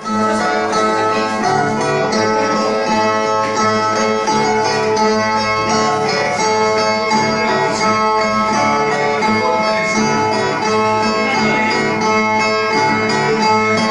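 Brazilian viola played alone, a steady repeating plucked pattern of ringing notes, as the instrumental introduction to improvised repente singing.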